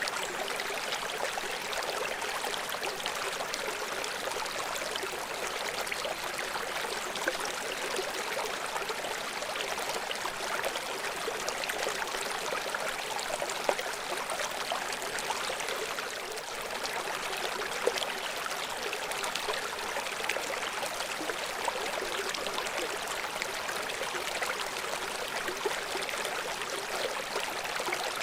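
River water flowing in a steady rush, with a few brief louder splashes.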